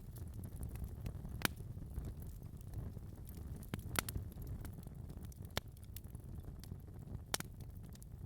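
Wood fire burning in a fireplace: a steady low rumble of flames with sharp, irregular crackles and pops, the loudest about a second and a half in, near four seconds, and around five and a half and seven and a half seconds in.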